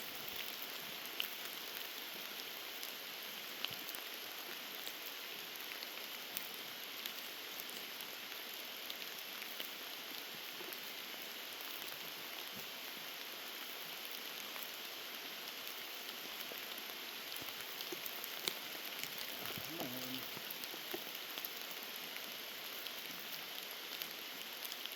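Steady heavy rain falling, with scattered close raindrops tapping.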